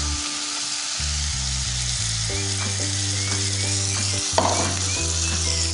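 Carrot and potato pieces sizzling in hot oil and masala in a kadai while a metal spatula stirs them. A clack of the spatula on the pan comes about four seconds in.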